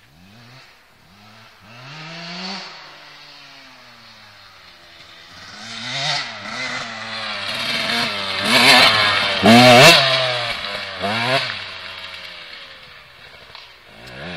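KTM 125 SX two-stroke single-cylinder dirt bike engine revving up and down again and again as it rides, growing louder to a peak about nine to ten seconds in, then fading.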